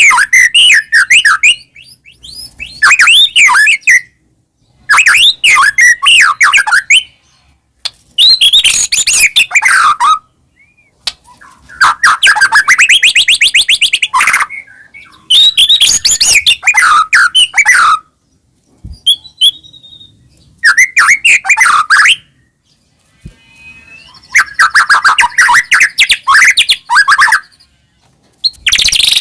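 White-rumped shama (murai batu) of the Medan type in full song: loud, varied phrases about two seconds long, with short pauses between them, full of fast trills and rattling notes.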